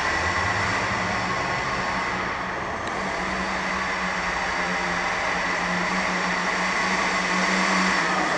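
Small two-stroke .18 glow (nitro) engine of a 1/10 RC monster truck running steadily at a held, moderate speed with an even pitch, as in break-in at no more than about quarter throttle.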